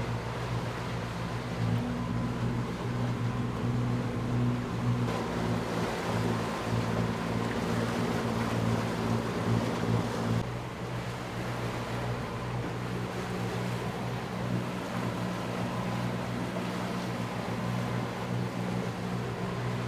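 Sailing catamaran's inboard diesel engine running steadily under way, with water rushing past the hulls and wind noise. One of its higher tones drops away about halfway through.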